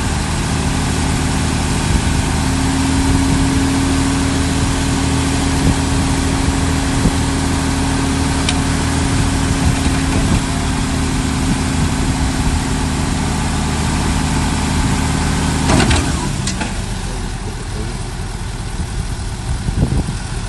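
Diesel engine of heavy earthmoving machinery running steadily. About three-quarters of the way through there is a sharp knock, after which the engine's steady hum drops away.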